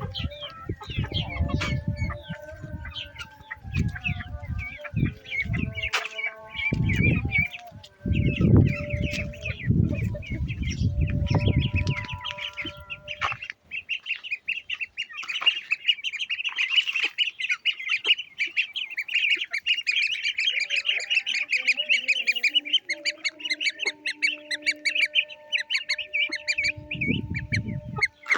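Many birds chirping and calling, densest and most continuous in the second half, with bursts of low rumble through the first twelve seconds and again near the end.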